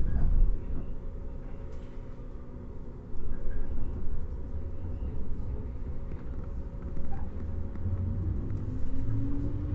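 Running noise inside a JR 115 series electric train's motor car: a steady low rumble of wheels and running gear that opens with a loud low thump. In the last couple of seconds the hum of the MT54 traction motors rises slowly in pitch as the train picks up speed.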